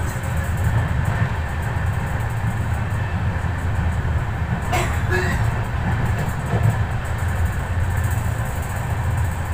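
Passenger express train running at speed, heard from aboard: a steady low rumble of wheels on track, with a single sharp clack about halfway through.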